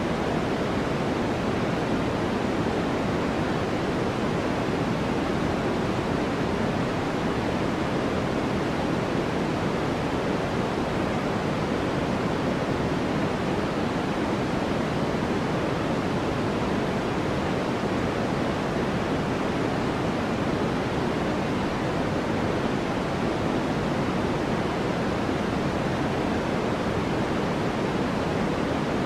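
Steady white-noise track: an even, unbroken hiss that never changes, fuller in the low and middle range than in the highs.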